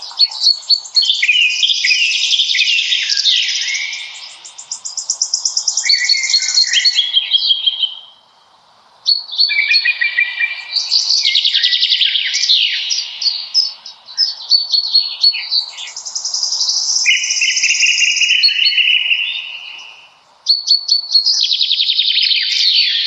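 Songbirds singing loudly in long phrases of several seconds, full of fast trills and rapidly repeated notes, with two short pauses.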